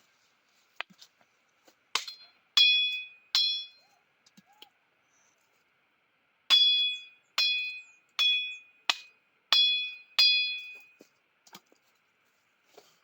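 A tool striking wood: about nine sharp blows, each with a brief ringing tone. Three come near the start, then a pause, then six more in quick succession.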